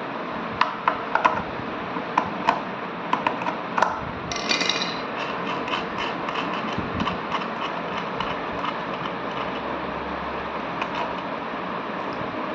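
Sharp metallic clicks and clinks of small hardware being handled, about ten in the first four seconds, with a brief ringing squeak about four and a half seconds in and scattered lighter ticks after, over a steady background whir.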